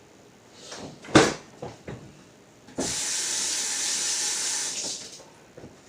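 Kitchen tap turned on, its water hissing steadily into the sink for about two seconds and then shut off. Before it comes a sharp knock about a second in, with a few light clicks.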